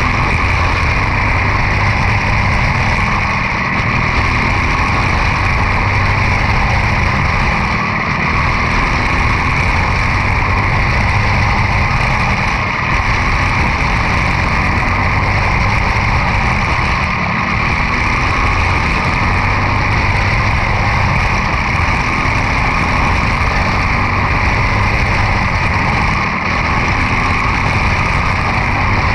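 Quarter midget race car's single-cylinder Briggs & Stratton Animal engine running hard through a race. There is a brief dip in the sound about every four and a half seconds, lap after lap.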